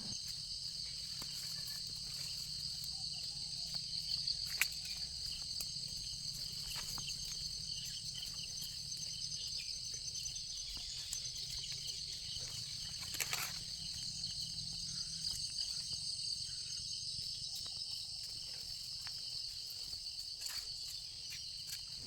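Steady high-pitched drone of an insect chorus, unbroken throughout, over a low rumble. Two sharp clicks stand out, about four seconds in and again about halfway through.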